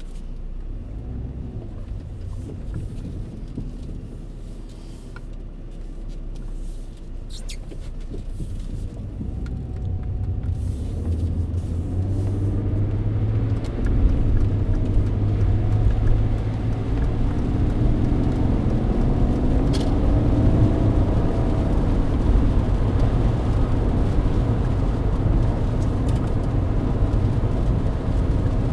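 Mercedes-Benz W124's engine and road noise heard inside the cabin: fairly quiet at first, then growing louder from about a third of the way in as the car speeds up, with the engine's hum rising in pitch.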